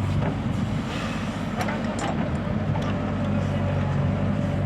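Heavy diesel engine running steadily at earth-moving work, with a few short metallic clanks about one and a half to three seconds in.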